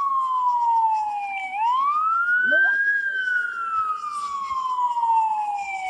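Fire truck siren wailing in a slow rise and fall. It falls, sweeps back up about a second and a half in, then falls slowly again through the rest.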